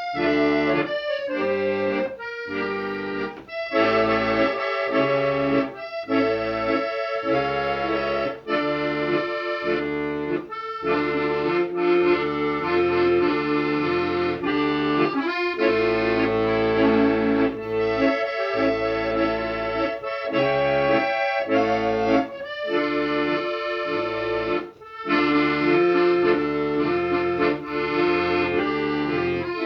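Accordion music: a tune of held notes over bass and chords that change every second or so, with a few short breaks between phrases.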